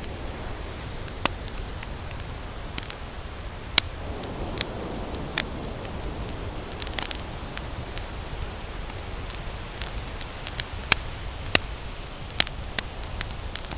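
Campfire crackling, with sharp wood pops at irregular intervals over a steady low rush.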